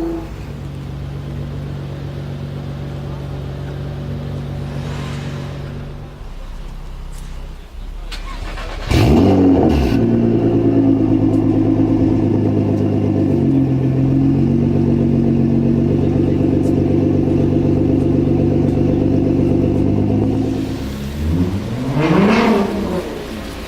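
Nissan R35 GT-R's twin-turbo V6 with a straight-piped exhaust idling, then revved sharply about nine seconds in and held at raised revs for about twelve seconds. It drops back, then gets a quick rev blip near the end.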